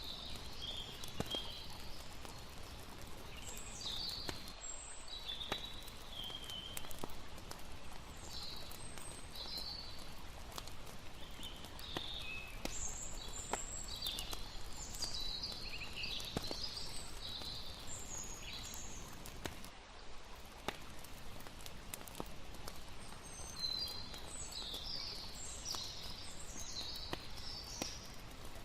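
Layered campfire-and-river night ambience: a wood fire crackling with small scattered pops over a steady bed of flowing water, with clusters of high chirping calls coming and going.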